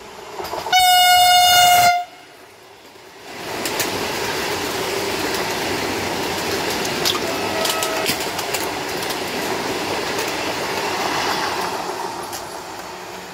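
Vande Bharat Express trainset sounds its horn in one short, loud, high blast of about a second. About two seconds later it passes at speed with a steady rush of wheel and air noise and a few sharp clicks from the wheels on the rails, easing off near the end.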